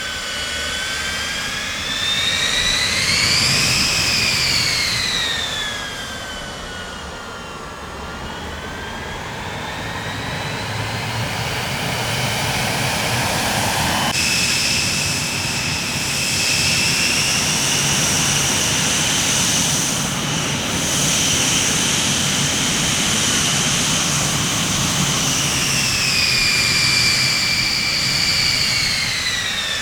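Jet aircraft engines running, a high turbine whine that rises and falls in pitch over a deep rumble. About halfway through it switches abruptly to a steadier, higher whine, which drops in pitch near the end.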